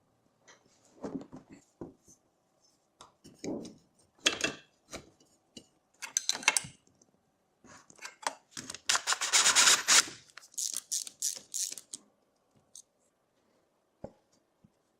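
Hand tools and metal parts being worked during the reassembly of a mini dirt bike: irregular clicks, scrapes and rattles, with the loudest run of quick clicking and scraping about nine to ten seconds in.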